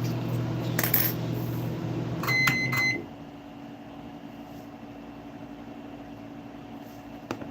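Microwave oven running with a steady hum, then giving a few short high beeps about two and a half seconds in as its cycle ends; the hum stops right after. A single click near the end.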